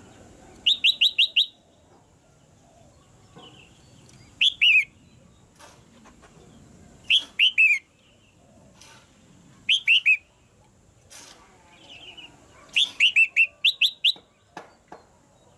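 Red-whiskered bulbul calling in short bursts of three to five quick, downward-sweeping chirps, repeated every two to three seconds. Faint clicks fall between the bursts.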